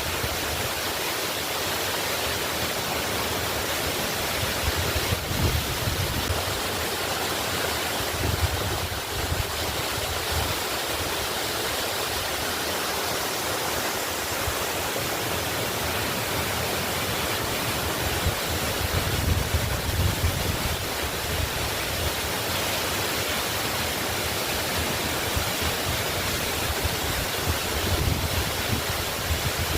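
Waterfall rushing steadily, with occasional low rumbles.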